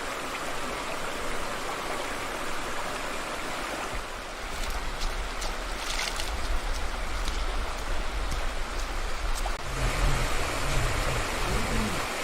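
Stream water running steadily. From about four seconds in, a low rumble grows under it with a few sharp knocks or splashes, and a low voice murmurs near the end.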